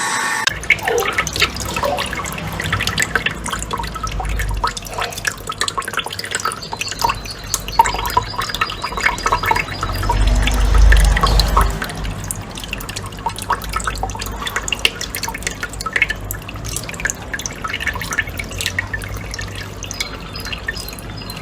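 Water dripping and splashing: many quick, irregular drips and splashes over a low rumble, a little louder about halfway through.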